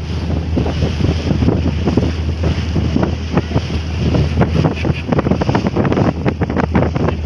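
Catamaran ferry under way at sea: a steady low engine drone under heavy, gusty wind buffeting the microphone.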